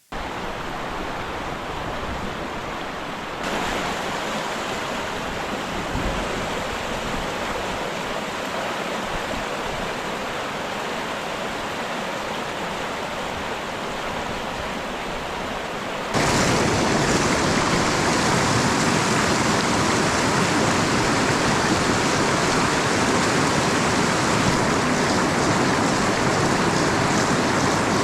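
Steady rushing of stream water, an even hiss with no tones in it. It jumps louder about three seconds in and again, more sharply, a little past halfway.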